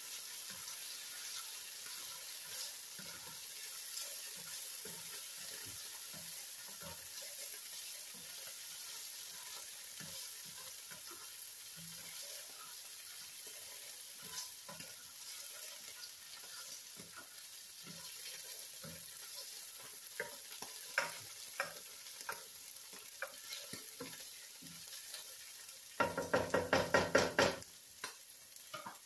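Chopped onion and roasted red pepper sizzling gently in a skillet while a utensil stirs through them with light scraping clicks. Near the end comes a loud burst of rapid knocking that lasts about a second and a half.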